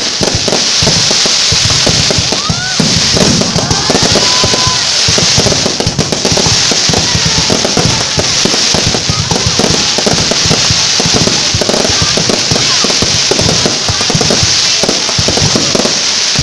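Aerial fireworks going off in a dense, unbroken barrage of bangs and crackling, with a few short whistles about three seconds in.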